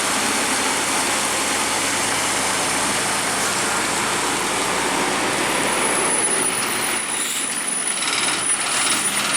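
A heavy vehicle's engine running steadily, under a loud, even road-side noise. A thin high whine joins about halfway through, and there are a few clicks near the end.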